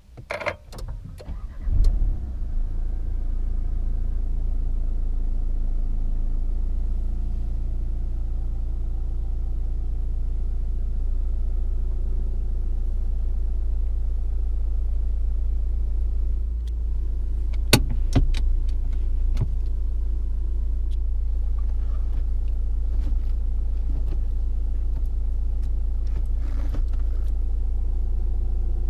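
Nissan Juke's 1.5 dCi four-cylinder turbodiesel being started: a short burst of cranking, the engine catching about two seconds in, then idling steadily. A few sharp clicks sound over the idle later on.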